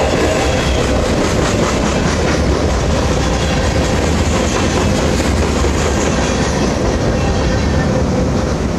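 BNSF grain train's covered hopper cars rolling past with a loud, steady rumble of steel wheels on rail and repeated clacking. The sound eases a little as the last car goes by near the end.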